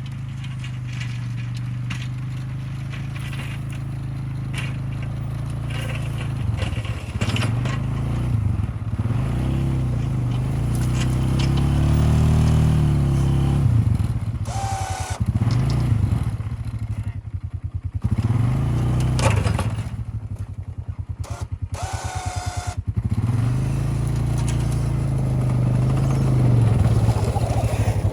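Engine of a small snowplow vehicle running and revving up and down again and again as it pushes snow with its plow blade.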